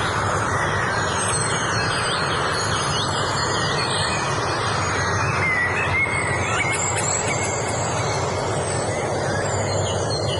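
Several songbirds chirping and whistling in short repeated phrases over a steady rushing noise.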